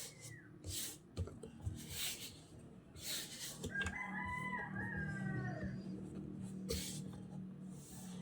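A rooster crowing once in the background, one drawn-out call lasting about two seconds, starting near the middle. Short rustling noises come and go around it.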